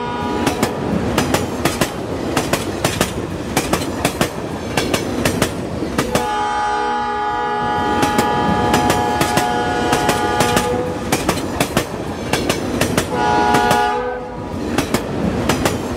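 A toy train running on its track: a steady rhythm of sharp clickety-clack clicks from the wheels, with a horn sounding for several seconds starting about six seconds in and again briefly near the end.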